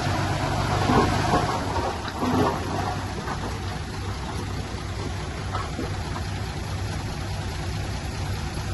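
Diesel engine of heavy earthmoving machinery running steadily under a dense rushing noise, a little louder with a few short knocks in the first couple of seconds.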